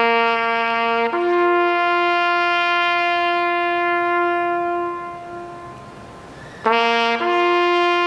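A brass-sounding horn call, played twice: a short low note, then a long higher note held for several seconds.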